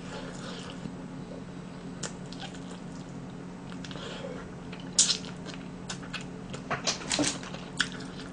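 Close-miked eating sounds: soft wet lip smacks and mouth clicks while chewing chicken, with one sharper smack about five seconds in and a few more near the end. A steady low hum runs underneath.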